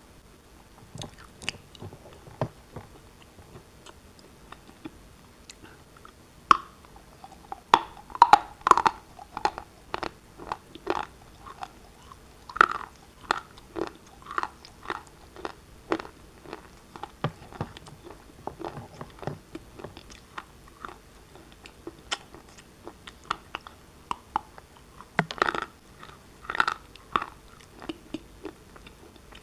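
Black shale pieces being bitten and chewed close to the microphone: a fast, irregular run of sharp crunches and cracks, with louder clusters now and then.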